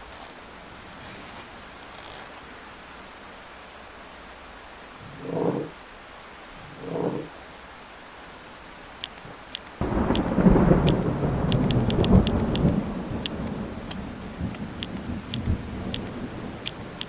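Steady rain, then a loud clap of thunder about ten seconds in that rumbles on for several seconds and slowly dies away. Two short dull sounds come a few seconds before it. Through the second half, a manual typewriter's keys strike in irregular clicks.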